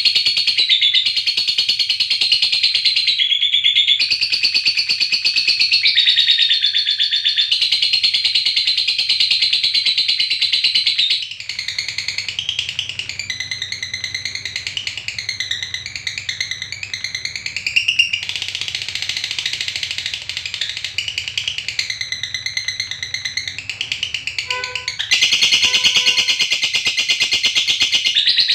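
Lovebird 'ngekek': a long, very rapid, high chattering trill that runs on almost without a pause. It drops to a quieter, wavering chatter about eleven seconds in and comes back loud near the end.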